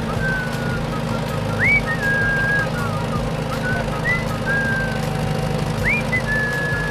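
A whistled tune of held notes, with a quick upward swoop about two seconds in and again near the end, over a steady low drone.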